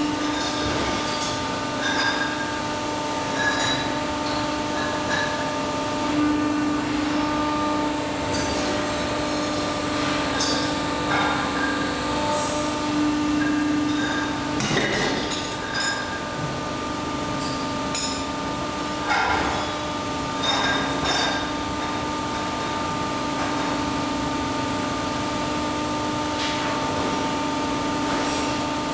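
Steady machine hum with several fixed tones, broken by scattered clicks and metallic clinks, a cluster of them about halfway through.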